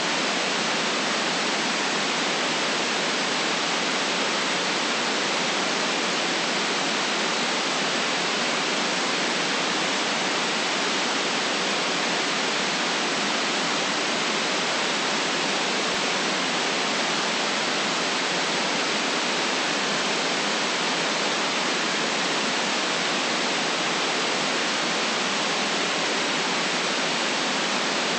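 Steady white noise: an even, unchanging hiss with no low rumble and nothing above a sharp upper edge.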